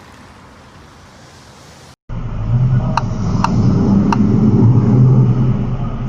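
Faint road hiss, then, after a sudden cut, a loud low rumble of a car's engine and tyres heard from inside the cabin. Three short sharp clicks come soon after the rumble begins.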